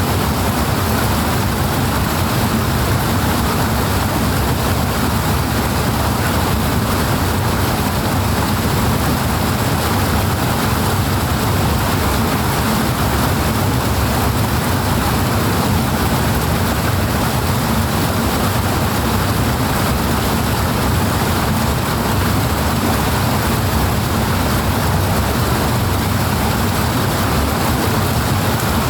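Powerful rushing water, a steady dense rush with a deep low end that never changes in level.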